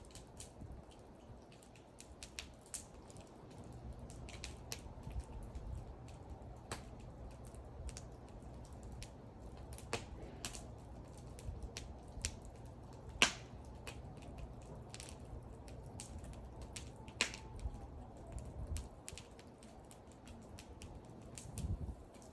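Wood fire crackling: irregular sharp pops and snaps from burning wood, one loud pop about halfway through, over a low steady rumble of the flames.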